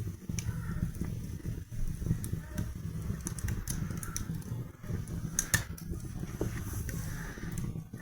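Wood fire burning in a fireplace: irregular sharp crackles and pops over a steady low rumble, the loudest pop about five and a half seconds in.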